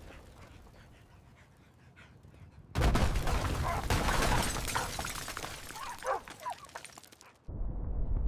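Disaster sound effects: a faint fading rumble, then about three seconds in a sudden loud burst of crashing noise with wavering cries in it that cuts off abruptly. Near the end a deep rumble starts.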